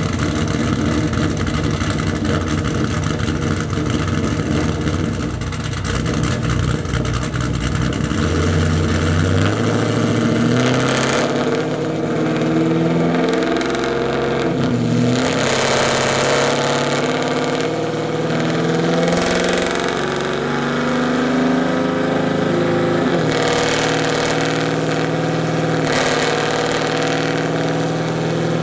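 2002 Chevrolet Camaro Z28's LS1 V8, with an LG G5X4 camshaft and ARH 1 7/8 in headers, running on a chassis dyno. It runs low for the first several seconds, then climbs steadily in pitch from about eight seconds in, with three sharp drops in pitch each followed by a fresh climb.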